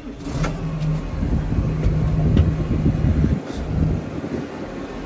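Case IH 125A tractor's six-cylinder turbocharged diesel engine running with a steady low hum, which builds about half a second in. A few light clicks sound over it.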